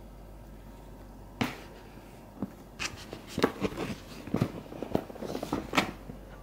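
A cat's plastic e-collar knocking and scuffing: a string of irregular light knocks and taps starting about a second and a half in.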